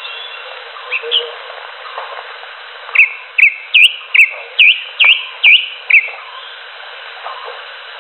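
Greater green leafbird (cucak hijau) calling: two short notes about a second in, then a run of eight loud, sharp whistled notes, each a quick pitch swoop, about two or three a second, over a steady hiss.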